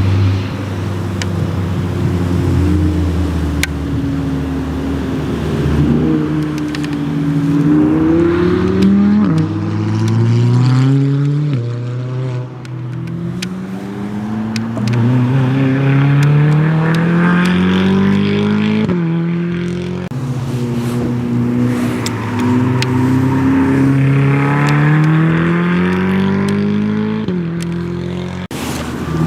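Supercar engine under hard acceleration on a sprint track, its pitch climbing and dropping back again and again as it shifts up through the gears.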